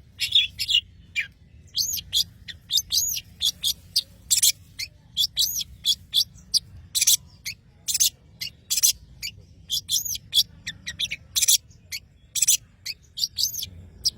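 Long-tailed shrike (cendet) singing in full voice: a steady run of short, sharp, high notes, some rising and falling in an arch, about one to two a second.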